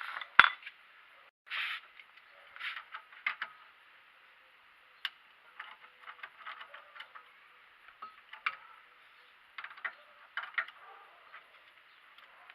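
Scattered metallic clicks and clinks from tools and parts during work on a car's brakes, with one sharp knock about half a second in.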